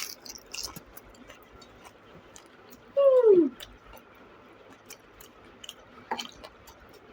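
Faint crunching and chewing of pani puri, with scattered small clicks. About three seconds in there is one short vocal sound that falls in pitch.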